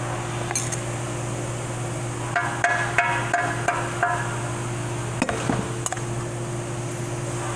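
A quick run of about six sharp, ringing metallic taps and clinks, then a few lighter clicks, as metal parts of a 4L60E transmission's input drum are worked on. A steady fan hum runs underneath.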